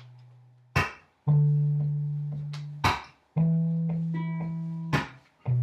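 Guitar playing the song's instrumental ending, with no singing: three sharp strums, each followed about half a second later by a low note that rings and slowly fades.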